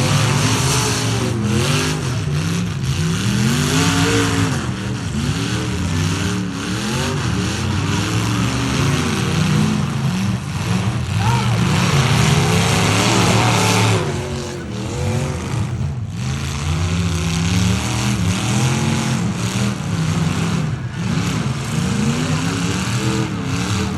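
Several demolition derby trucks' engines revving hard, their pitches rising and falling again and again and overlapping, under a broad rushing noise.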